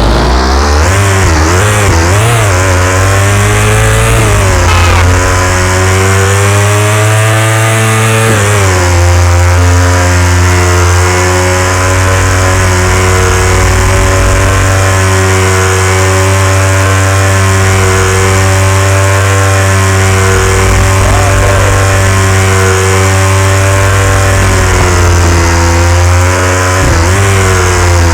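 KTM 390 Duke single-cylinder motorcycle engine revving up and down for the first few seconds, then held at steady high revs.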